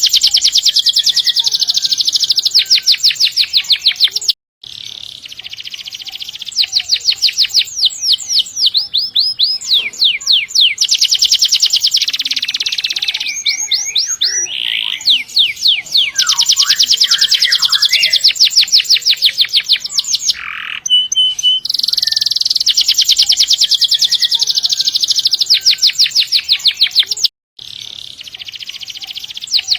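Domestic canary singing in full voice: long rolls of rapid repeated high notes, one trill running straight into the next. The song breaks off twice for a split second, about four seconds in and near the end.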